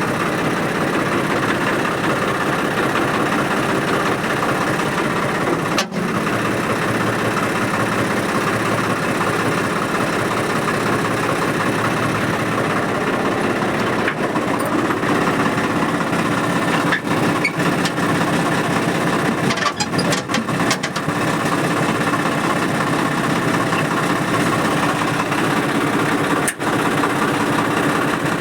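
Swaraj 855 tractor's three-cylinder diesel engine idling steadily after its cold-weather start.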